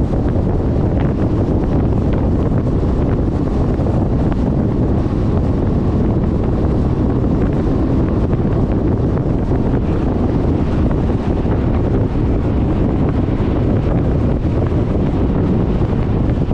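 Steady wind rush buffeting the microphone of a GoPro mounted on a moving Suzuki Burgman 400 scooter, a low, even rumble with no breaks.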